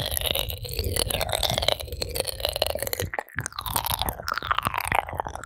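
Ear-cleaning ASMR: an ear-pick tip scratching and rubbing against a microphone's ear, giving dense close-up crackling, with several whistle-like tones sliding downward in pitch.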